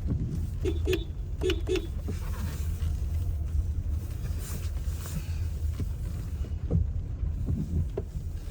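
Car moving slowly, heard from inside the cabin: a steady low engine and road rumble, with a few short pitched sounds in the first two seconds.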